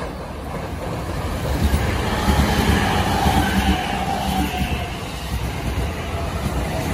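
Electric commuter train in JR Yokosuka–Sobu-line livery approaching and running close past, with a steady rumble of wheels on the rails that grows louder about two seconds in. A faint whine slides slightly lower in pitch as the cars go by.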